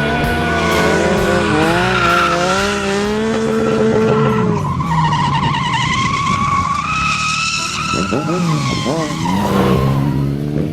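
Vehicle engines revving up and down hard while tires squeal and skid in drifts. The squeal comes in strongly about halfway through.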